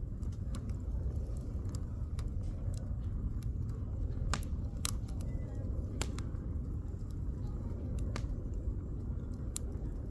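Firewood burning in a campfire, crackling with irregular sharp pops over a steady low rumble.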